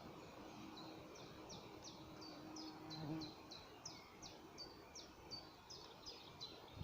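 A songbird singing a faint, long series of short, high, down-slurred notes repeated about three times a second. A faint low hum sounds under it in the first half.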